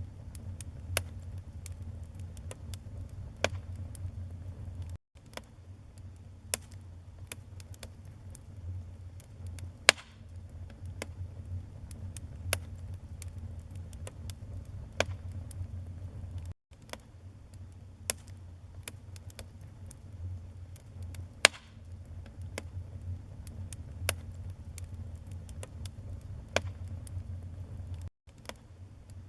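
Wood fire burning in a fireplace: a steady low rumble with irregular sharp crackles and pops of burning logs. The sound drops out for an instant three times, roughly every eleven or twelve seconds.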